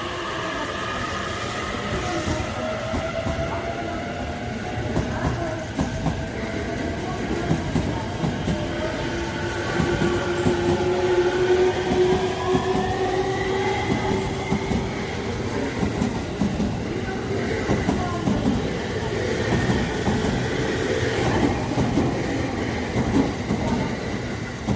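JR East E233-3000 series electric train pulling away, its traction inverter and motors whining in several tones that slowly climb in pitch as it gathers speed. The clatter of wheels over rail joints grows as the cars pass.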